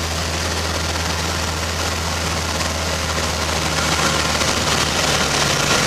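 Light aircraft's piston engine and propeller running with a steady drone, growing slightly louder after about four seconds.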